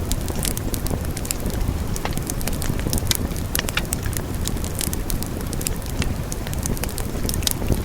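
Wood fire burning in a fireplace, crackling with many sharp pops and snaps over a steady low rumble of the flames.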